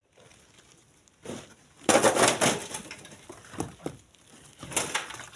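Stones and gravel crunching and knocking in an uneven series, loudest in a cluster about two seconds in, with a few smaller knocks after.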